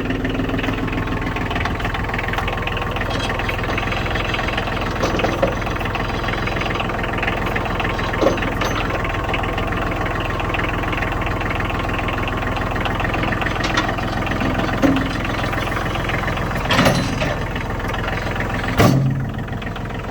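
Cub Cadet 8354SS compact utility tractor's diesel engine idling steadily, with a few short knocks late on.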